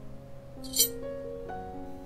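Soft piano music plays. Just under a second in there is one short, bright clink as a Japanese kitchen knife's steel blade is lifted off a granite countertop.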